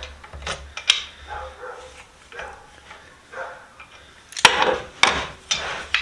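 Dogs barking in the background, a string of separate barks, with the loudest two sharp sounds about four and a half and five seconds in.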